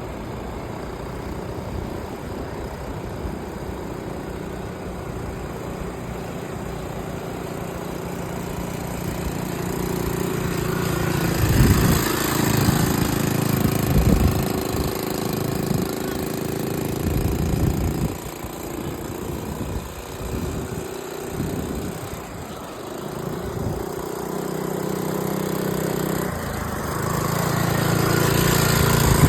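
Dirt bike engine running, revved repeatedly through the middle with the pitch swinging up and down, then settling to a steadier note and building again near the end.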